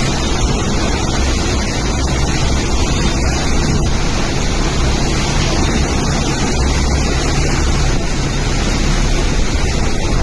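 Steady rushing noise of wind and water in a cyclonic rainstorm, with a low rumble underneath.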